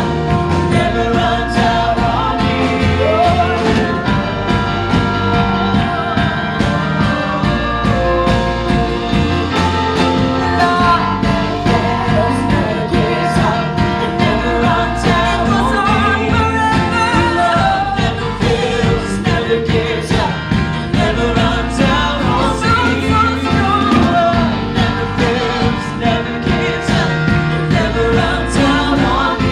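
Live Christian worship band playing an upbeat song with singing, drums, bass and electric guitar.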